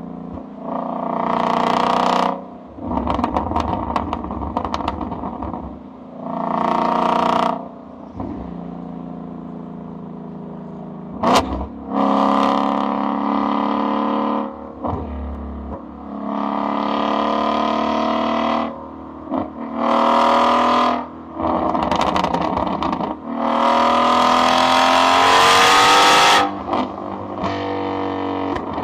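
Ford Mustang GT350's V8 exhaust revved repeatedly from idle, in a series of short blips and longer held revs, the last one climbing steadily in pitch before dropping back to idle. A single sharp crack sounds about a third of the way in.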